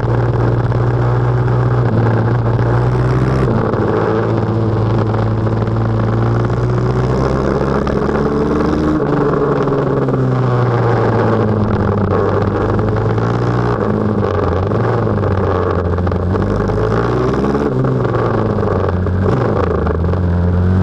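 Pit bike engine running hard as the bike is ridden, its pitch rising and falling with the throttle and stepping down abruptly a few times.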